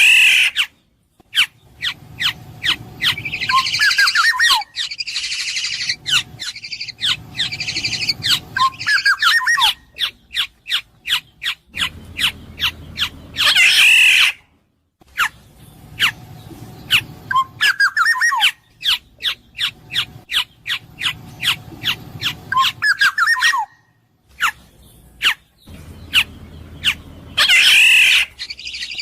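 Black-naped oriole (kepodang emas) calling: runs of short, sharp clicking notes mixed with fluted, slurred whistles, and a harsh nasal squawk about halfway through and again near the end. The same sequence of calls repeats, as in a looped recording.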